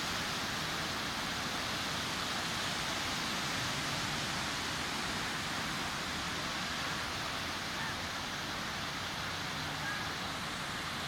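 Sea surf washing onto a beach: a steady, even rush of breaking waves.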